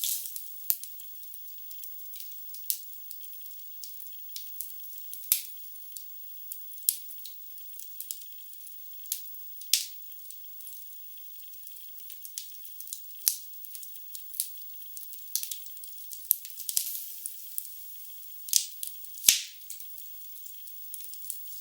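Wood fire crackling in a fireplace: a thin, hissy crackle with irregular sharp pops of burning logs, the loudest a little before the end.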